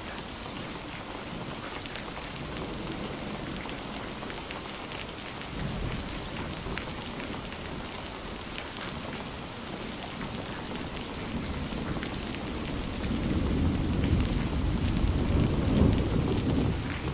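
Steady rain falling on surfaces with scattered drop ticks, while thunder rumbles low, building to a louder rolling peal near the end.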